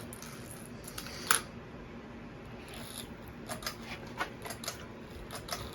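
Pull chains of a Hampton Bay Rothley II ceiling fan clicking and rattling, over a faint steady hum. One sharp click comes about a second in, and several lighter ticks follow later.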